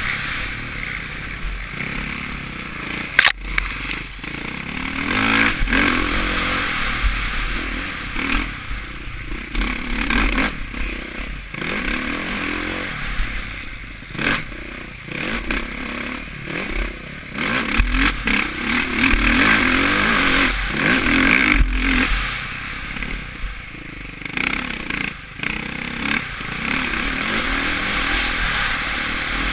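Suzuki RM-Z450 single-cylinder four-stroke motocross bike ridden hard, its engine rising and falling with the throttle, with wind rush and clatter from the bike over the track. A sharp knock comes about three seconds in.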